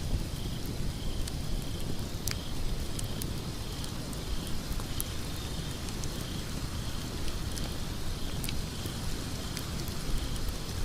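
Wood fire burning in a fireplace: a steady low rumble and hiss of flames with scattered sharp crackles and pops from the logs.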